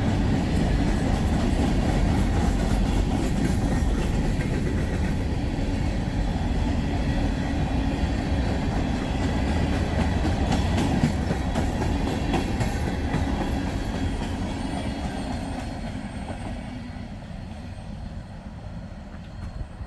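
Freight train cars rolling past, steel wheels clicking over rail joints, with a steady low rumble that fades away over the last few seconds as the train moves off.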